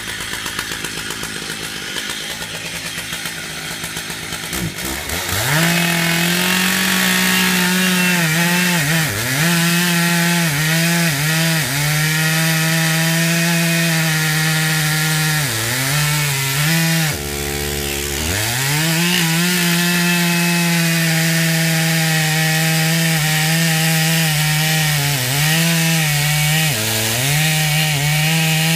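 Chainsaw idling for about five seconds, then opened up to full throttle and cutting through wood. Its engine note sags now and then as the chain bites, and it drops back briefly about two-thirds of the way through before revving up again.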